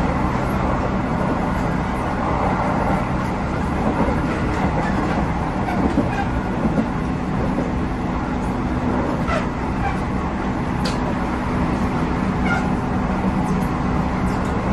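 Running noise of a JR Central 311 series electric multiple unit: a steady rumble of wheels on rail with a motor hum, and a few light clicks between about nine and thirteen seconds.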